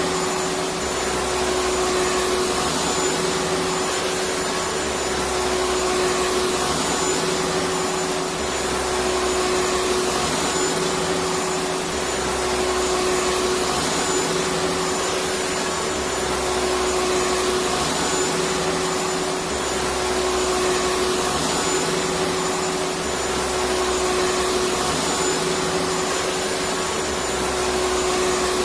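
Electric vacuum cleaner running steadily: an even rushing hiss with a constant hum. Under it, a low rumble swells and fades about every two seconds.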